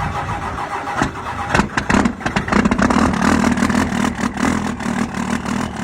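Diesel truck engine turning over with uneven knocks, catching and settling into a steady idle from about halfway.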